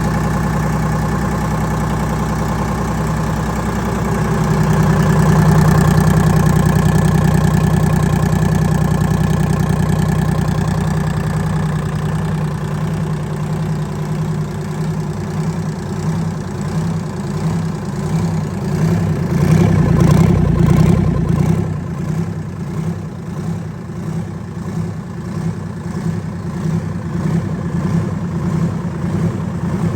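Detroit 6V53, a two-stroke V6 diesel, running on a test run. Its speed rises around four to six seconds in and again briefly near twenty seconds, then settles back to a lower, uneven idle.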